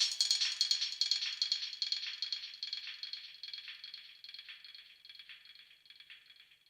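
Rapid rattling, shaker-like percussion at the tail of a dub track, fading out steadily. It grows duller as the high end drops away.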